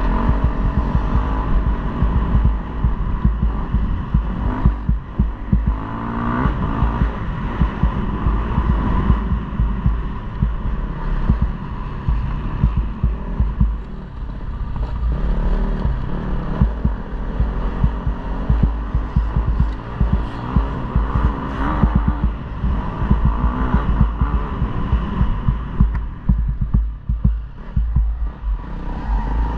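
KTM 250 motocross bike engine revving up and down as it is ridden around a track, its pitch rising and falling repeatedly, under a heavy low buffeting rumble.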